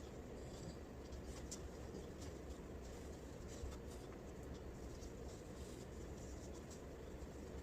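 Faint, scattered scratching and light clicks over a steady low hum.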